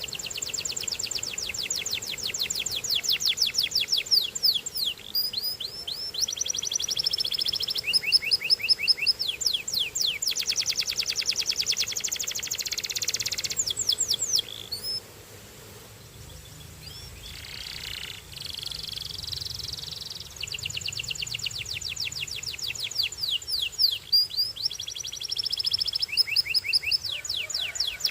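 Canary singing high-pitched rolling trills and fast repeated-note phrases, changing tour every second or two. The song breaks off for a few seconds past the middle, then starts again.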